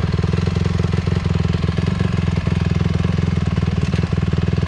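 Dirt bike engine idling steadily with a rapid, even pulsing, its hot start lever just let go.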